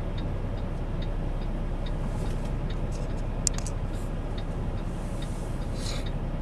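Steady low engine and road drone inside a semi-truck cab while driving, with faint even ticking about twice a second and a single sharp click about three and a half seconds in.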